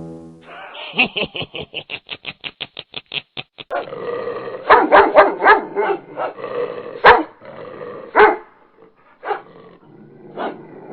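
A dog barking: a fast run of short yaps, then several louder barks from about four seconds in, tapering to a few fainter barks near the end.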